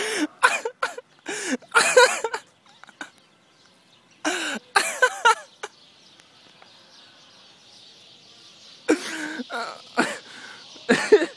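A man's loud wordless yells and shrieks, meant to scare a flock of birds away, in short bursts: several in the first few seconds, more about four seconds in, and again near the end. A steady high hiss comes in about six seconds in and carries on underneath.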